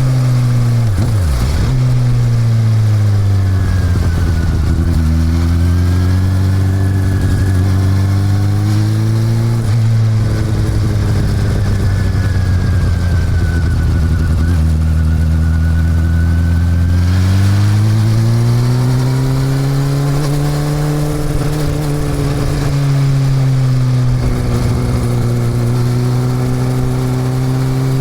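Honda CB400 Super Four's inline-four engine running while riding. The pitch drops twice quickly near the start, then swells up and down slowly: it sinks low about a third of the way in, holds there, and climbs back up past the middle.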